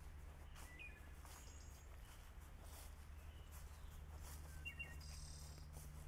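Faint, scattered bird chirps, a few short calls with a small cluster near the end, over a low steady background rumble.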